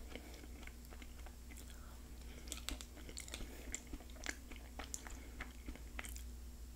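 Faint close-up chewing and mouth sounds of eating pinto beans, with scattered small clicks of a utensil scooping from a plastic cup.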